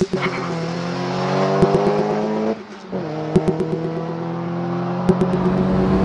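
Car engine accelerating: its pitch climbs steadily, drops away briefly about two and a half seconds in as for a gear change, then picks up and climbs again.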